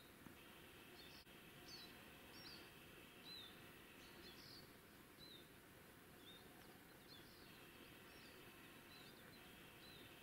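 Faint birdsong in forest: short high chirps repeating roughly once a second, over a steady high trill that stops for a few seconds midway.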